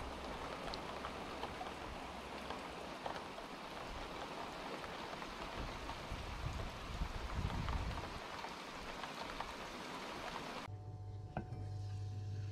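Steady rain falling, with scattered drops and drips from a roof edge. About ten seconds in it cuts abruptly to a steady electrical hum of several tones, with one short tick.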